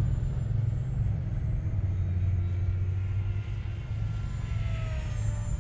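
A steady low rumble, with the faint whine of a small electric RC airplane's motor and propeller. Near the end its pitch drops as the plane flies past.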